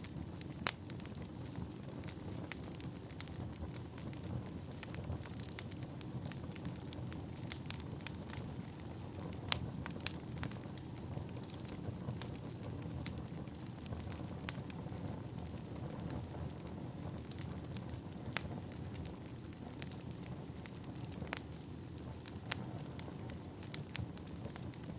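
Burning firewood: a steady low rumble with irregular crackles and sharp pops, a few of them louder snaps.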